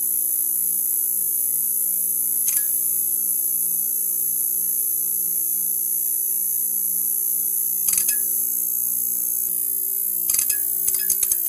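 Neon sign buzzing: a steady electrical hum under a high hiss, broken by brief crackling clicks about two seconds in, around eight seconds, and in a quick cluster near the end.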